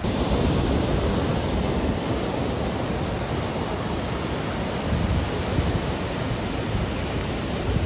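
Steady rushing noise of tropical-storm weather, with low rumbling buffets of wind on the microphone.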